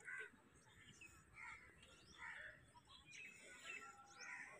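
Faint, scattered bird chirps and short calls over a quiet outdoor background.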